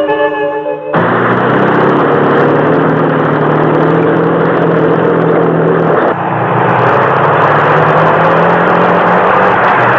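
A loud, steady mechanical roar with a low hum underneath, starting abruptly about a second in as eerie music cuts off, with a brief break about six seconds in.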